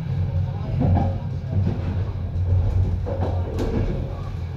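Electric passenger train running on the line: a steady low rumble, with louder stretches about a second in and around three seconds in.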